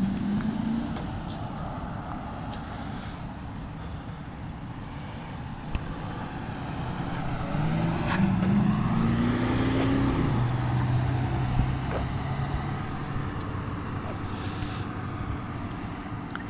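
Steady motor-vehicle engine and road noise. About seven and a half seconds in, an engine rises in pitch as it accelerates, then settles into a steady hum for a few seconds.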